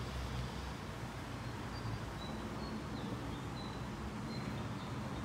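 Steady low hum and hiss of background noise, with a bird giving a series of short, high chirps from about two seconds in to past the middle.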